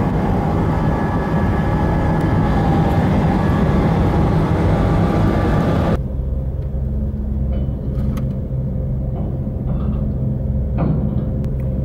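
Steady low drone of a car ferry's engines with rushing noise, cut off abruptly about halfway through by a quieter, lower steady engine hum with a few faint clicks.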